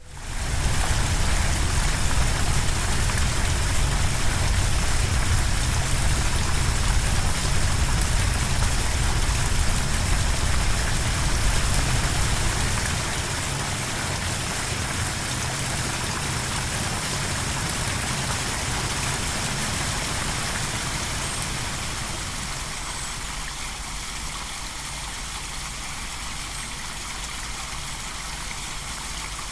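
Steady rush of flowing water with a strong low rumble, as recorded in the field. It starts abruptly and becomes somewhat quieter a little under halfway through, and again later on.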